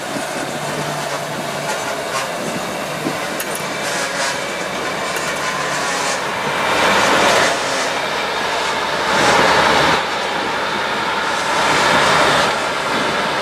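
Railroad tank cars rolling slowly past on the rails, followed by a 1942 GE 65-ton center-cab diesel switcher going by with its engine running. The noise swells louder three times in the second half.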